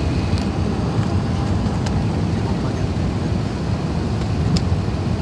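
Steady low rumble inside the passenger cabin of an Airbus A380 airliner, with a few faint clicks.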